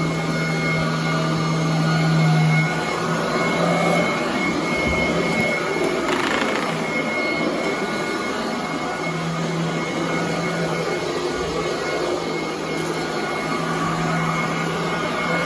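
Royal commercial vacuum cleaner running steadily over carpet, with a constant low motor hum and a thin high whine.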